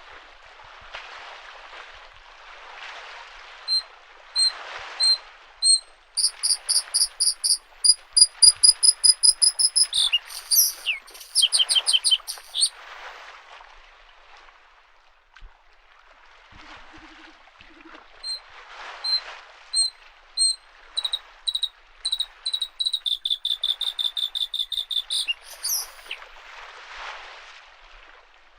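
Bluethroat singing: two song phrases, each opening with a few spaced notes that speed up into rapid trilling. Under it, small lake waves lap at the shore, swelling and fading about every two seconds.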